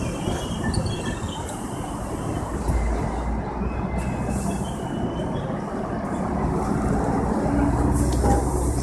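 R32 subway cars rolling in along the platform as the train arrives, a steady rumble of wheels on rail with faint wheel squeals in the first couple of seconds.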